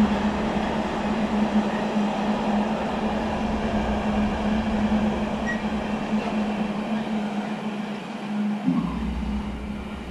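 Container freight train rolling past, a steady rumble of wagons on the rails with a constant low drone, slowly growing quieter toward the end.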